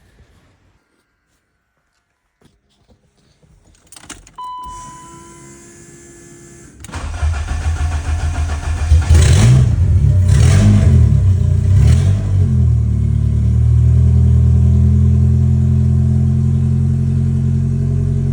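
A turbocharged Honda K-series four-cylinder swapped into a BMW E36 is started on its replacement block. After a few clicks and a short beep, it cranks and catches about seven seconds in. It is sharply blipped about three times, then settles into a steady idle.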